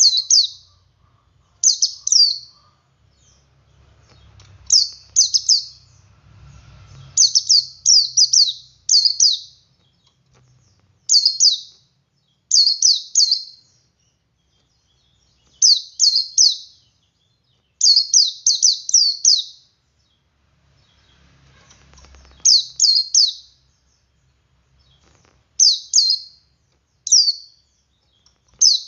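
Male white-eye (pleci) singing its ngalas song: short clusters of two to four quick, high, falling notes, repeated every second or two with brief pauses. This is the song played as a lure to set other white-eyes singing.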